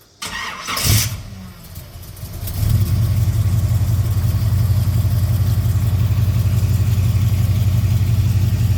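1937 Ford's flathead V8 being started: a burst of noise in the first second, then the engine catches and settles into a steady, even idle about two and a half seconds in.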